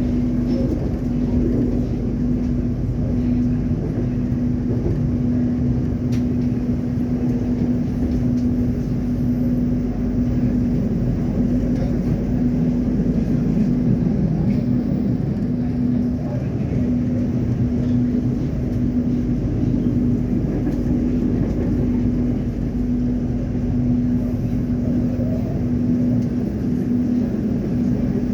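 KAI Indonesia train running: a steady low rumble with a constant hum throughout.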